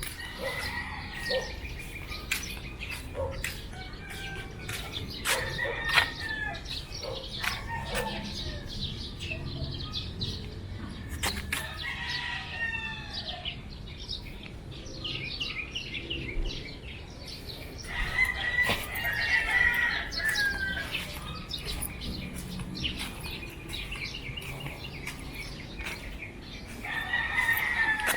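Roosters crowing several times, each crow about two seconds long, over a scatter of short sharp clicks and small bird chirps.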